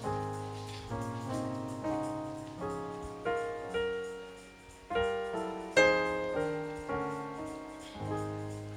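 Keyboard playing slow, gentle chords, struck about once or twice a second and each left to fade, with the loudest, brightest chord about six seconds in.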